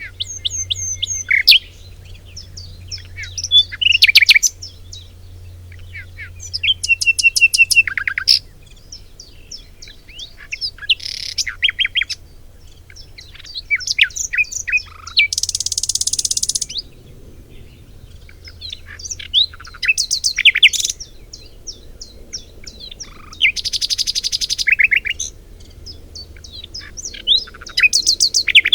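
A songbird singing: a run of varied phrases of high chirps, quick trills and whistled notes, each phrase a second or two long and separated by short pauses, twice including a buzzy rattling trill.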